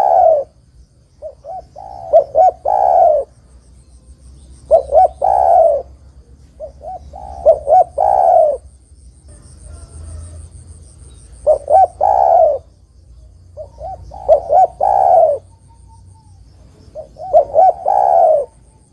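Spotted dove cooing: about seven repeated phrases, each a few short coos running into a longer, louder final coo, one phrase every two to three seconds.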